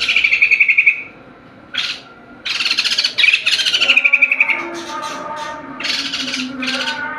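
White-crested laughingthrush singing in loud bursts of rapid, rattling chatter. There are a few phrases with short pauses between them, two of them sliding down at the end.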